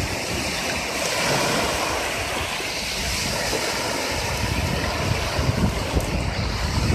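Sea surf washing on the shore, with wind buffeting the microphone in low gusts, stronger in the second half.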